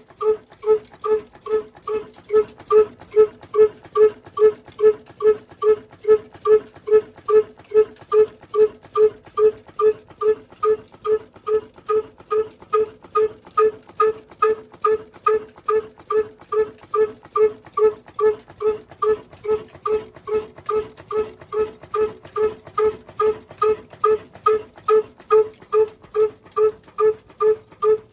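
Slow-running diesel engine at a steady idle after its cold start, its exhaust beating evenly about twice a second with a hollow, pitched pop on each beat.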